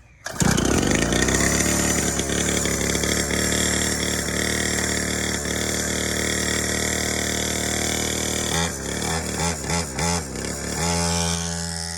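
Dirt bike engine starting up about a third of a second in, revving up quickly and then running steadily. Near the end it gets a few quick throttle blips before settling into a steady idle.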